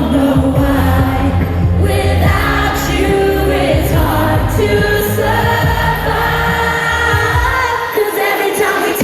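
Live pop music with singing held over a steady bass line; the bass drops out briefly near the end.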